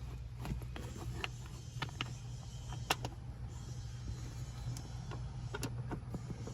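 Irregular light clicks and knocks of plastic interior trim and a bolt being handled as a kick panel is fitted back over its bolt hole, over a steady low hum.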